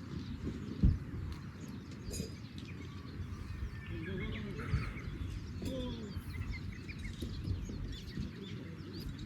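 Small birds chirping and calling over a steady low outdoor rumble, with a single thump a little under a second in.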